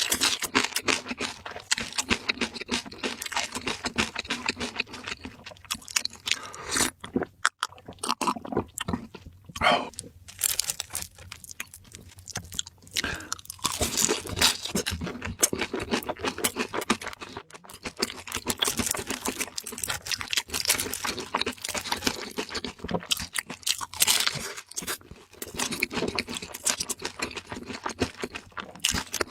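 Close-miked chewing and crunching of crispy fried food: rapid, dense crunches with a few brief pauses between bites.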